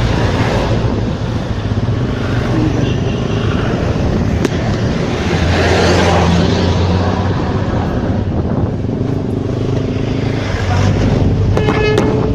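A motor vehicle engine running steadily, with road noise, and a brief high tone near the end.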